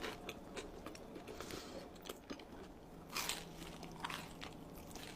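Close-miked eating: chewing and crunching of food, with irregular crunchy bites, the loudest about three seconds in.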